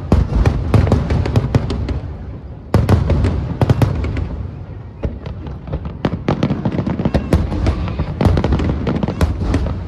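Aerial fireworks bursting in rapid volleys of booms and crackling bangs, with a fresh loud volley about three seconds in and another dense run in the second half.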